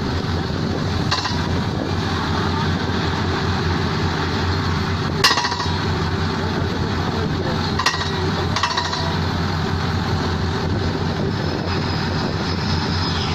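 Steady mechanical din with a low hum, broken by four sharp metallic clinks that ring briefly, the loudest about five seconds in.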